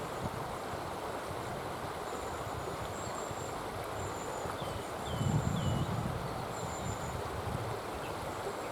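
Steady rushing of a river, with faint high-pitched bird calls over it: thin high notes that recur, and three short chirps about five seconds in. A low rumble swells briefly about five seconds in.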